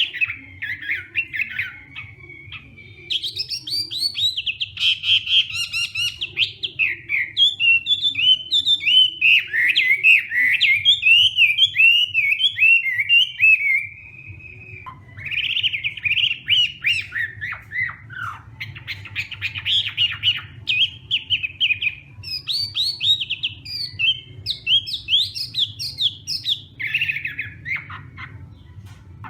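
Chinese hwamei singing a long, loud, varied song of rapid rising and falling notes, with short pauses about two seconds in and around the middle. A faint steady low hum lies underneath.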